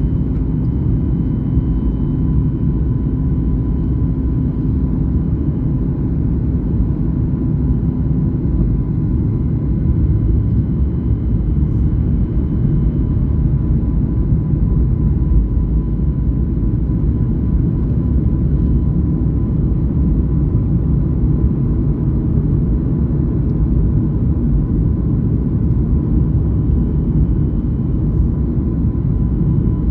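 Steady low rumble of jet engines and airflow inside an airliner's passenger cabin, with faint steady whining tones above it. A low hum fades out about eight seconds in.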